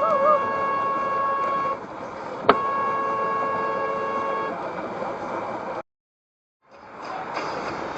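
Car horn sounding in two long held blasts, the first ending about two seconds in and the second, starting with a sharp click, lasting about two seconds, over road noise. A brief dropout of all sound follows, then road noise again.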